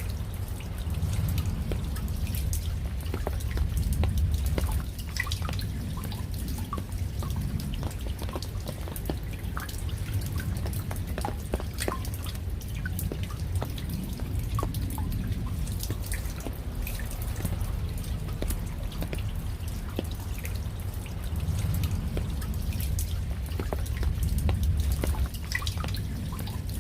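Raindrops falling and dripping, many separate drops at an irregular pace over a steady low rumble that swells twice.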